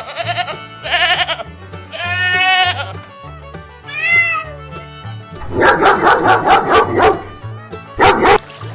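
A series of recorded farm-animal calls, about six in a row, over a steady background music track; a rapid run of repeated calls comes about two-thirds of the way in.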